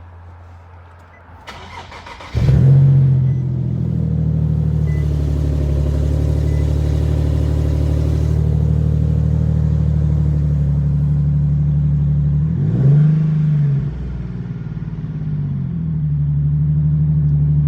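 Nissan 370Z's 3.7-litre V6 with an aftermarket exhaust, cold-started. The starter cranks briefly and the engine catches with a flare a little over two seconds in, then holds a steady fast cold idle. About thirteen seconds in the revs rise and fall briefly, then the idle dips and climbs back.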